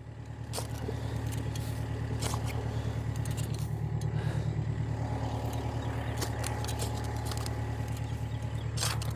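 Volvo skid steer's diesel engine running steadily under work, picking up slightly in the first second and then holding even, with scattered light clicks and rattles from the machine.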